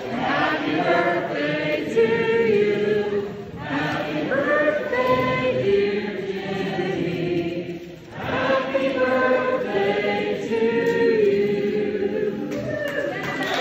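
A group of voices singing together, choir-style, in long held phrases, with brief pauses between phrases about three and a half and eight seconds in.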